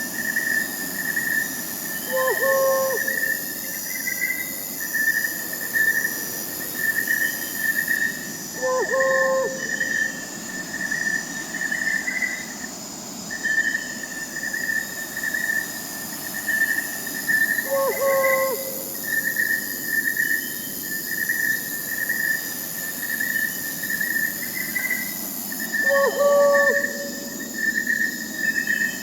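Crickets chirping in a steady, even pulse, with an owl hooting four short times, about every eight seconds.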